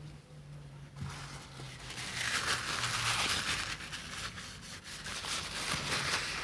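Close-miked rustling with fine crackles, starting about a second in and growing louder.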